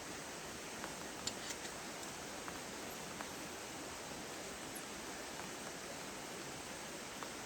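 Steady rain falling, with a few louder drops ticking sharply around a second or two in and once near the end.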